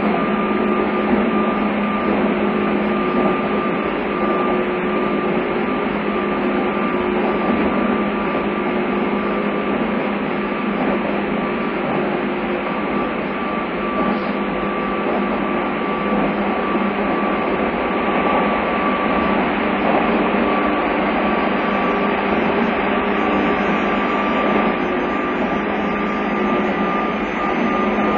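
Running sound inside a JR East 201 series electric commuter train travelling at steady speed: an even rumble of wheels on rail with constant humming tones. Recorded on a phone's voice recorder, which dulls the sound.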